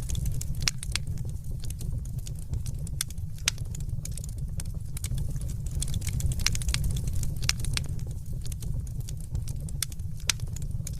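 Fireplace wood fire crackling: frequent irregular sharp pops and snaps over a steady low rumble.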